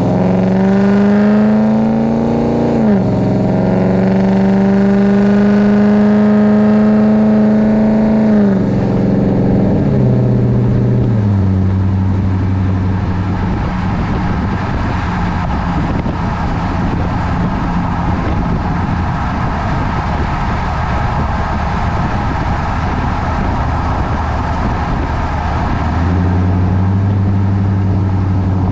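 2018 Chevrolet Silverado's exhaust through an equal-length exhaust system, the engine pulling up in revs with a sudden drop about three seconds in, like a gear change, then climbing again. About eight seconds in the revs fall away, and the engine settles into a steady low drone that picks up slightly near the end.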